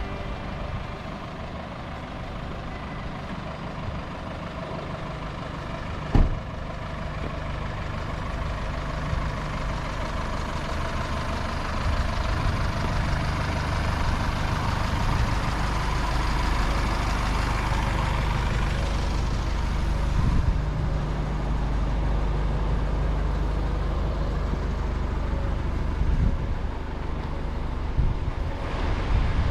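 Street ambience: motor traffic running past, with strong wind rumbling on the microphone, building louder about twelve seconds in. A single sharp knock about six seconds in.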